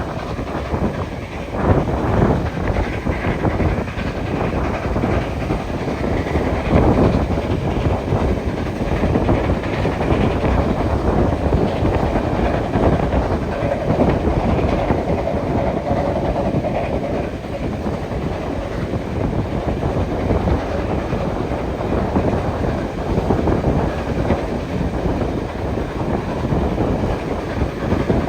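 Steam-hauled train running along the line, with a steady rumble of the carriages and wheels clicking over rail joints. A faint steady whine comes in for a few seconds about halfway through.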